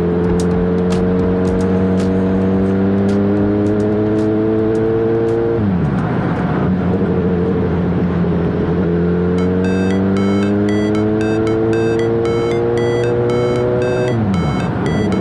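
Suzuki GSX-S1000 inline-four motorcycle engine pulling under acceleration, its pitch climbing steadily and dropping sharply on an upshift about six seconds in, then climbing through the next gear and dropping on another upshift near the end. Background music with a beat plays along.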